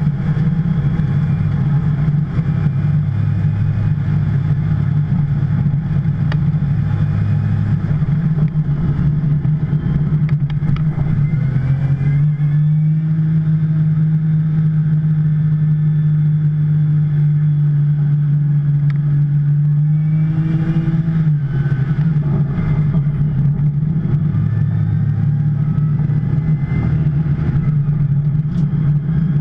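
2010 Porsche 911 Turbo's twin-turbo flat-six running at a steady, moderate pace, its engine note holding one pitch for several seconds in the middle. The car has lost its turbo boost and is being driven gently to the finish.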